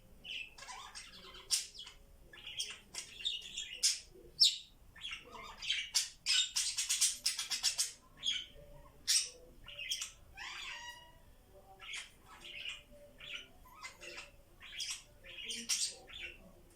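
Budgies chattering: many short chirps and squawks in quick succession, with a denser run of chatter partway through.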